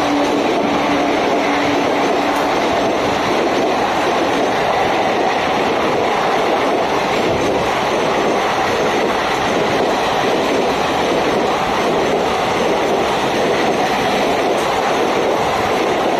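Passenger train coaches rushing past at speed alongside the platform, a steady loud noise of wheels on rail and rushing air. The locomotive's horn tone carries on for the first two seconds or so, then stops.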